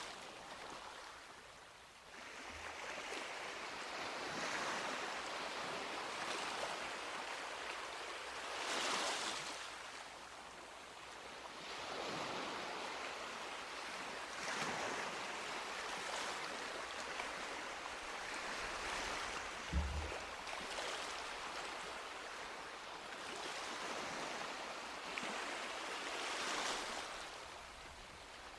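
Sea waves breaking and washing up a beach, swelling and easing every few seconds. There is a brief low thump about two-thirds of the way through.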